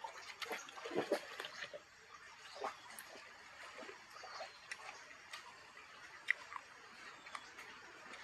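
Faint river water: irregular small splashes and trickling, with scattered light clicks.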